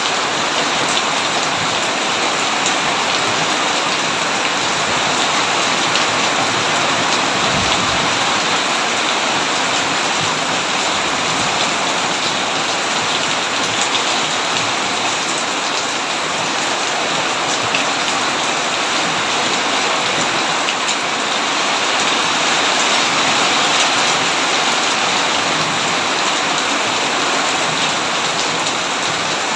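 Heavy rain pouring steadily: a dense, even hiss with individual drops ticking through it.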